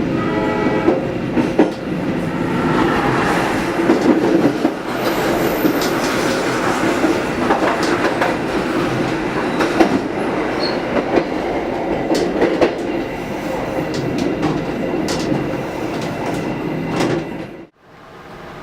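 Passenger train running on the track, its wheels clattering over rail joints with a steady rumble. A horn-like tone fades out in the first second. The sound cuts off abruptly near the end.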